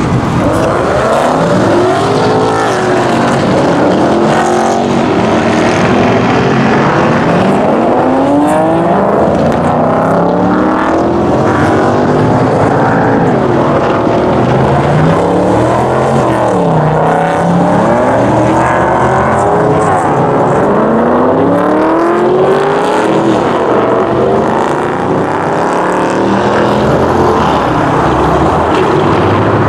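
Several car engines revving and accelerating away one after another, their overlapping notes repeatedly climbing in pitch and dropping back.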